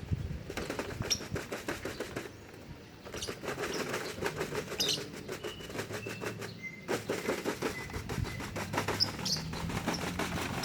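Lovebirds flapping and fluttering about in a cage, unsettled by the new place, with a few short high chirps.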